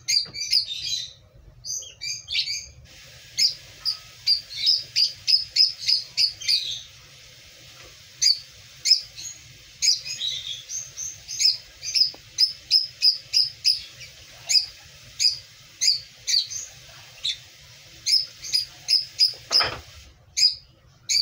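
A small bird chirping over and over: short, high chirps, often two or three a second, in runs with brief pauses, with a faint low hum underneath.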